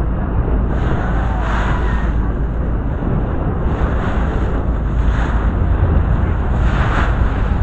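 Wind buffeting the microphone on a moving boat, a heavy steady rumble, with water rushing and splashing along the hull in repeated surges every second or two.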